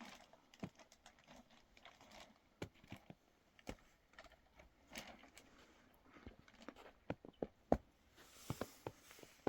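Faint, irregular clicks and knocks of objects being handled, a few sharper ones close together in the second half, with a short rustle about three-quarters of a second before the end.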